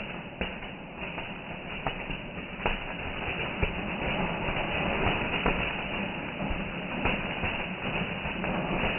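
Fireworks going off: a continuous rumbling crackle with a few sharp bangs standing out, one about half a second in and others near 2, 3.5 and 7 seconds.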